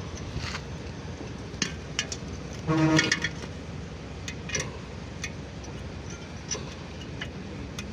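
Scattered light metallic clinks and taps of hand tools and parts over a steady low rumble, with a brief ringing tone about three seconds in.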